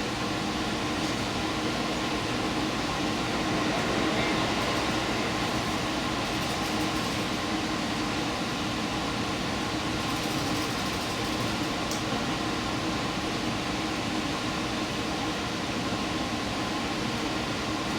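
Steady hum and rumble inside a diesel express train as it runs slowly into a station, with an even fan-like whir.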